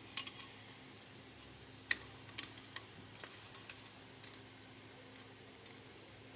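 A few scattered light clicks and taps from small parts being handled, the sharpest about two seconds in, over a faint steady hum.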